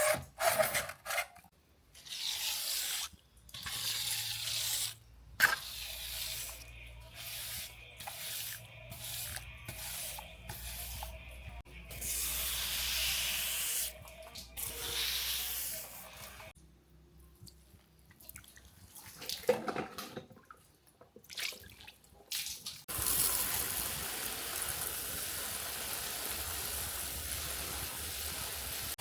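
Water spraying in short stop-start bursts with drips and small knocks, then running as a steady spray for the last several seconds.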